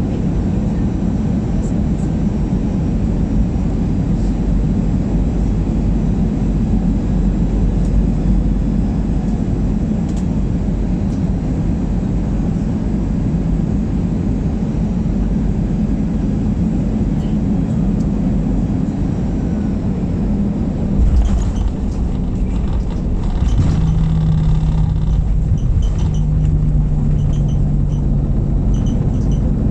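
Airliner cabin noise on landing: a steady low rumble of engines and airflow. About 21 s in there is a brief jolt, and a few seconds later a steady low drone sets in that drops a step in pitch.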